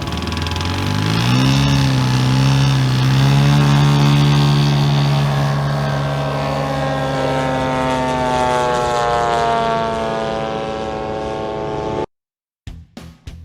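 Large-scale RC model airplane's propeller engine revving up over the first two seconds, running steadily at high throttle, then slowly dropping in pitch. It cuts off abruptly about twelve seconds in.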